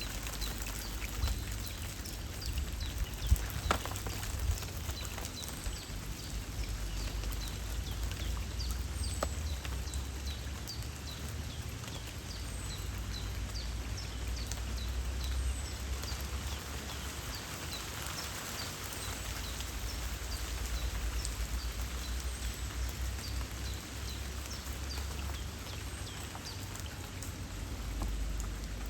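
Steady light rain patter by a river, with a low rumble underneath and scattered sharper drop hits, the sharpest about three and a half seconds in. A small bird chirps over it again and again in short, high, falling notes.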